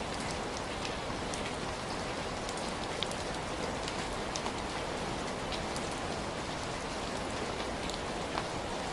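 Heavy rain falling steadily: a dense, even hiss of rainfall with scattered sharp ticks of individual drops striking a surface.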